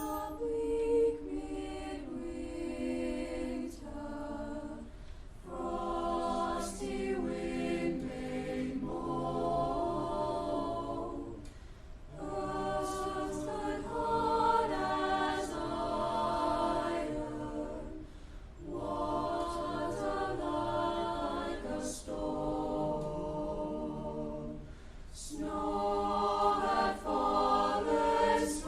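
Student choir singing in long phrases with brief breaks between them about every six or seven seconds.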